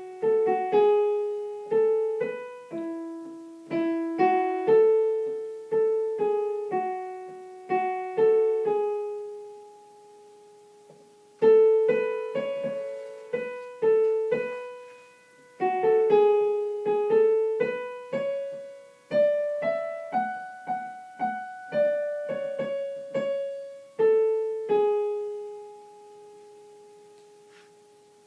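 Piano playing a single soprano melody line, one struck note at a time, each note dying away; the phrase pauses briefly about ten seconds in, then resumes and ends on a long held note that fades out.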